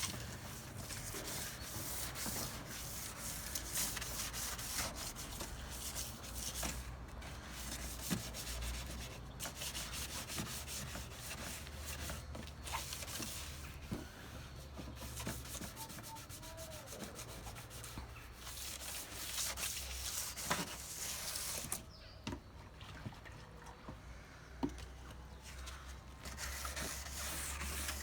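Wet and dry sandpaper rubbed by hand back and forth over a car bumper in quick scratchy strokes, scuffing off the top layer of shine. The rubbing eases off for a few seconds near the end.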